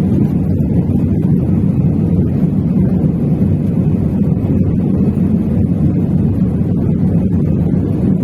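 Passenger airliner's engines and airflow making a steady, loud low rumble.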